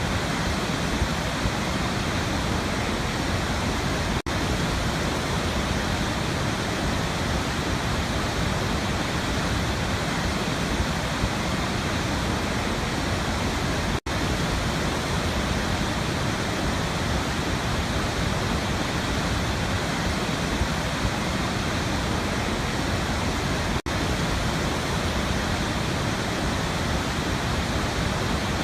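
Waterfall: a steady rush of falling water, broken by three very brief dropouts about ten seconds apart.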